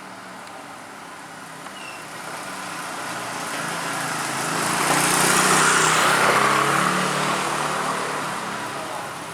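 Train passing very close: the engine note and rolling noise build to a loud peak about halfway through, then fade away.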